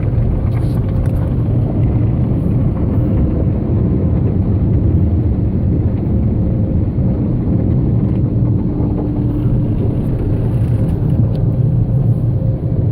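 Rotating automatic car-wash brushes scrubbing over the car, heard from inside the cabin as a loud, steady, low rumbling wash of noise with a faint machine hum under it.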